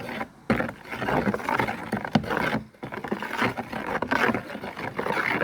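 A spoon stirring muddy water with grass in it: irregular sloshing and scraping against the container, with a couple of brief pauses in the stirring.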